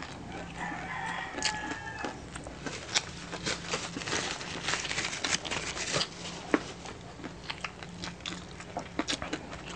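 Close-miked chewing and crunching of crispy pata, deep-fried pork knuckle, with rice: a dense, irregular run of crisp crackles and wet mouth clicks.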